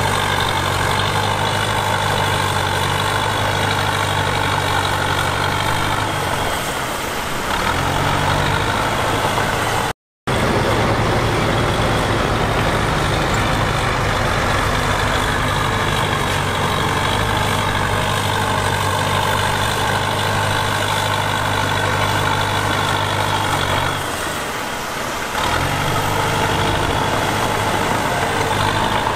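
Heavy diesel earthmoving machinery running steadily. Its deep engine note eases off briefly twice, and the sound cuts out for a moment about ten seconds in.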